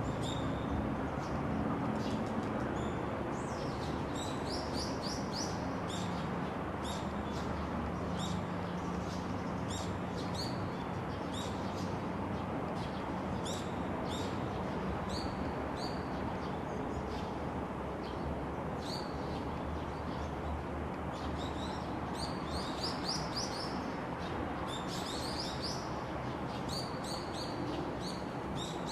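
Small birds chirping: many short, high chirps in quick runs, denser about two-thirds of the way through, over a steady background hiss and low hum.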